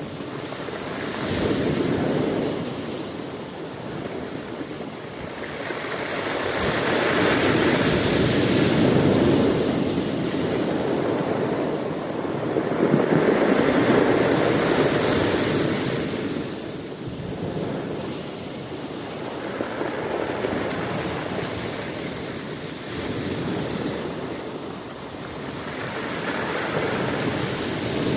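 Ocean waves breaking and washing up the shore, the surf swelling and easing in slow surges every few seconds, with some wind on the microphone.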